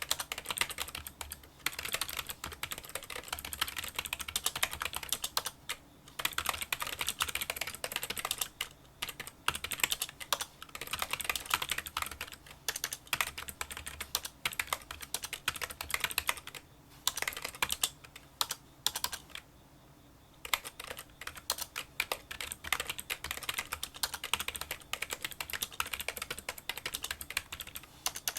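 Fast touch-typing on a Kinesis Freestyle Solo split keyboard with membrane key switches: a small, light clicking of keystrokes in quick runs, broken by a few brief pauses, the longest about two-thirds of the way through.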